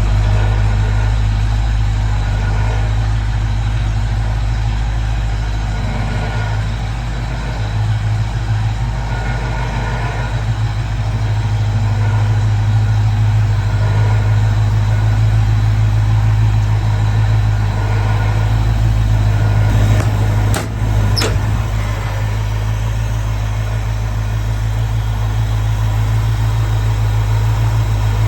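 A 1966 Ford Mustang's engine idling steadily after a cold start, with a couple of brief clicks about two-thirds of the way through.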